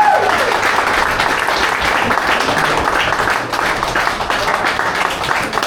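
Crowd applause: many hands clapping in a continuous dense patter.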